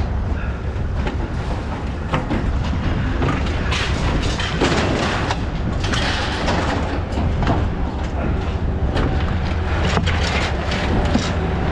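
A vehicle running with a steady low rumble, with loose rattles and clanks coming through on and off.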